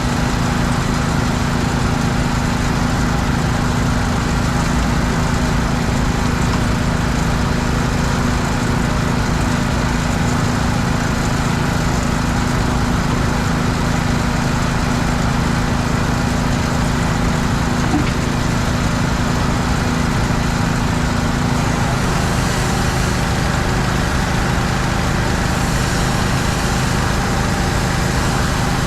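An engine running steadily. About 22 seconds in its note drops lower and a hiss comes and goes over it.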